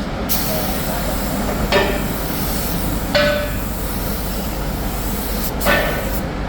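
Steady machine-shop noise with three sharp metal clanks, the second ringing briefly.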